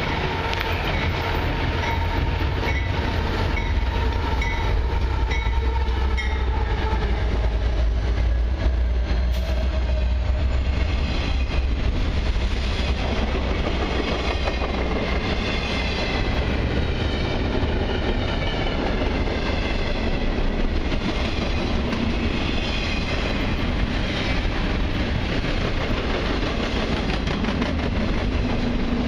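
A long diesel-hauled intermodal freight train passing close by. For the first several seconds the locomotives rumble low under a steady high tone. Then double-stacked container cars roll past with continuous wheel-and-rail noise and clicking over the rail joints.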